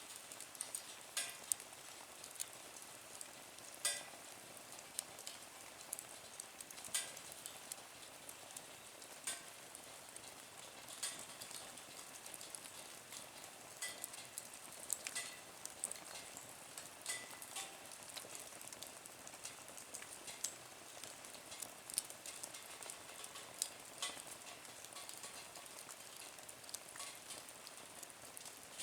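Wood fire burning in a small Nature Stove camp stove, crackling with irregular sharp pops and snaps over a steady soft hiss.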